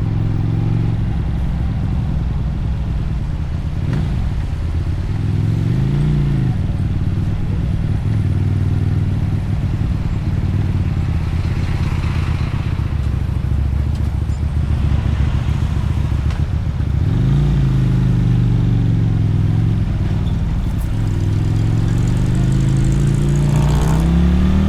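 Motorcycle engine and exhaust running while riding. The revs rise and fall about six seconds in and again around seventeen seconds, then climb once more near the end.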